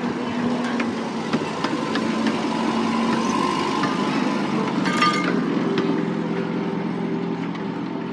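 Miniature railway train running: a steady engine drone with sharp clicks scattered throughout, and a brief shrill squeal about five seconds in.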